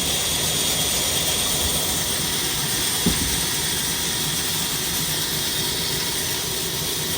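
Old 22 hp black diesel engine running steadily under a constant hiss, with one sharp knock about three seconds in.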